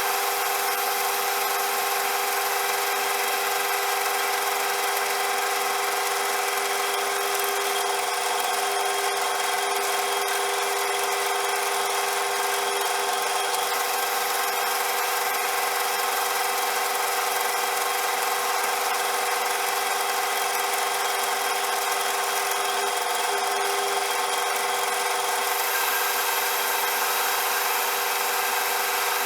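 CJM360 metal lathe running steadily, with a constant whine of several steady tones over an even hiss.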